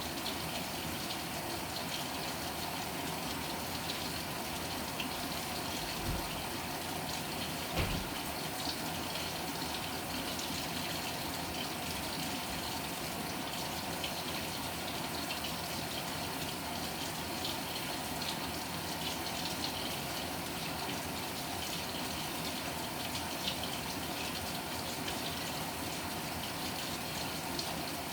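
Water gushing steadily into the tub of a Panasonic NA-FA100H9 top-loading washing machine, with two faint low thumps about six and eight seconds in.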